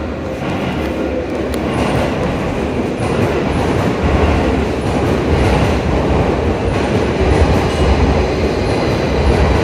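Electric commuter train rumble with some wheel clatter, heard from inside a train's front car; the rumble grows louder over the first few seconds and then holds steady.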